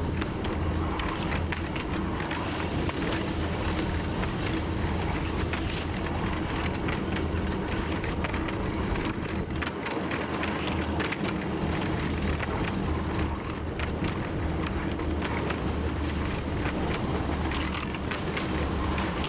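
TU7 narrow-gauge diesel locomotive running steadily under way, heard from the cab. Its engine gives a constant low drone, and the wheels and cab keep up an irregular clatter of clicks and knocks on the track.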